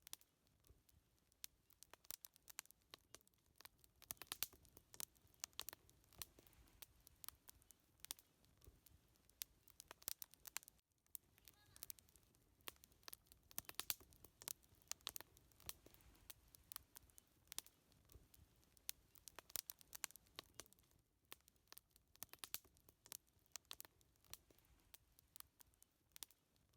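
Wood fire crackling: quiet, irregular snaps and pops, often coming in quick clusters, over a faint low hiss.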